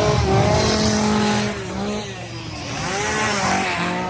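Loud vehicle sound: an engine revving with squealing tones that glide up and down, easing off about a second and a half in and swelling again near the end.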